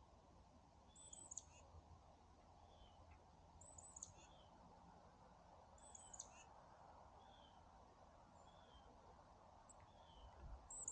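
Wild birds calling faintly: a high, thin phrase repeats about every two and a half seconds, with shorter, lower slurred notes between, over a low steady outdoor background noise.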